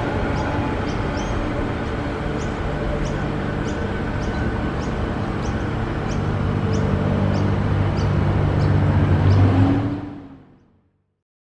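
Pacific National container freight train pulling away on the rails: a steady rumble with a low drone that grows louder toward the end, and a faint high chirp repeating about twice a second. The sound then fades out.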